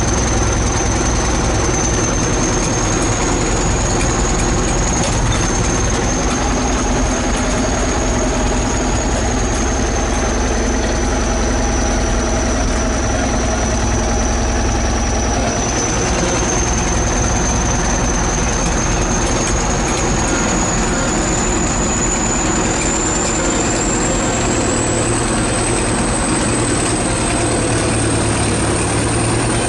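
ChTZ T-170 crawler bulldozer's diesel engine running steadily, with a thin high whine over it that rises slightly over the last third.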